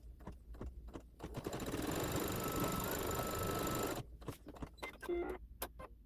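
Embroidery machine stitching a placement line, a dense steady run of needle strokes that starts about a second in and stops abruptly after a few seconds, with scattered clicks before and after.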